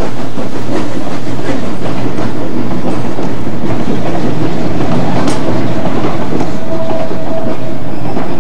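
Narrow-gauge passenger coaches of a Durango and Silverton train rolling past on a curve, their wheels clicking steadily over the rail joints. A short steady squeal comes about six and a half seconds in, the sound of wheel flanges on the curve.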